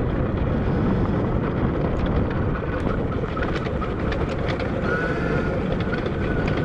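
Wind buffeting an unshielded GoPro microphone while riding an electric dirt bike over a rough trail, with frequent rattles and clicks from the bike over the ground. A brief faint whine comes through about five seconds in.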